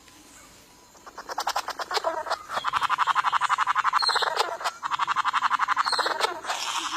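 Male bowerbird giving a fast, rattling churr during his courtship display, about a dozen pulses a second, building up about a second in and easing off near the end, with a couple of brief higher notes in the middle.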